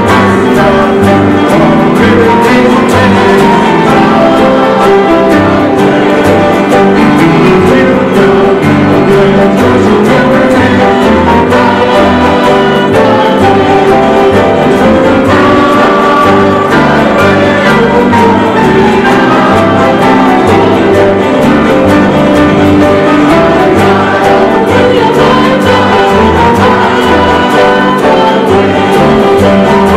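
Live worship music: a gospel song with a group singing over instruments and a steady pulsing bass.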